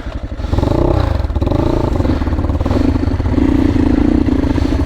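Dirt bike engine revving under load: it picks up sharply about half a second in, its pitch rises and falls briefly, then it runs fairly steadily at higher revs, with some clattering.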